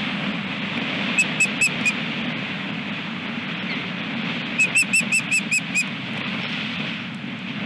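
Osprey calling: two runs of short, high, whistled chirps, four about a second in and seven more about halfway through, over a steady rush of wind on the microphone.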